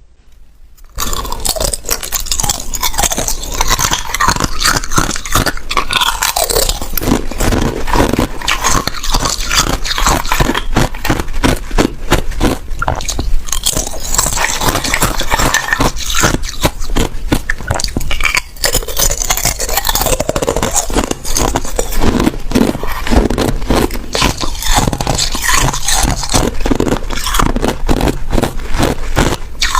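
A person biting and chewing ice: a dense, continuous run of sharp cracks and crunches, starting about a second in.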